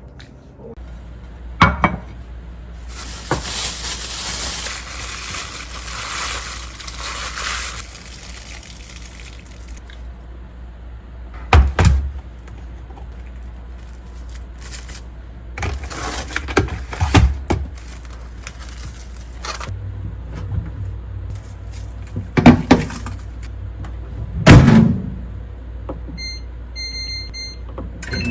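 Kitchen work sounds: a tap runs for several seconds, and dishes and containers knock down on a counter now and then over a steady low hum. Near the end a microwave oven's keypad beeps several times in quick succession.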